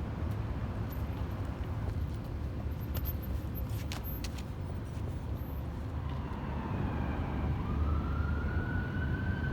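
Steady low road and traffic rumble, then about six seconds in a fire apparatus's siren starts up as a slow wail rising in pitch, the sign of an emergency vehicle running hot to a call.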